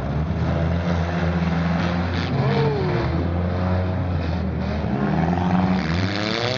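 Four-cylinder demolition derby car engines running and revving, their pitch rising and falling.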